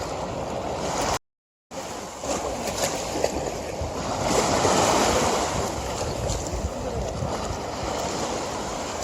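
River water rushing steadily, swelling louder for a couple of seconds around the middle. The sound cuts out completely for about half a second just after the start.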